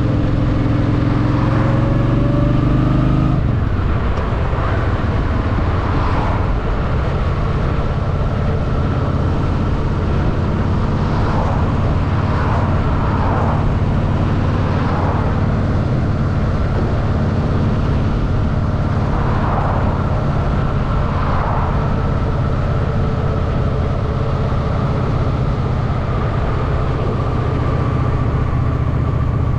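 Honda Shadow VT750's V-twin engine on the move, its revs climbing for the first few seconds, then dropping away about three seconds in and running steady at low revs.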